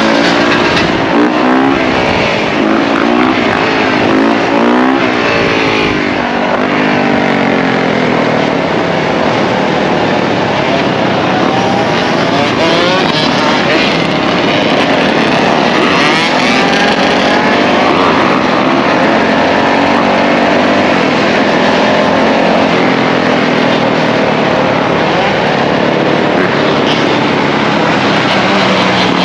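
Several dirt bike and ATV engines running together, revved up and down repeatedly over the first few seconds, then running more evenly with overlapping pitches rising and falling.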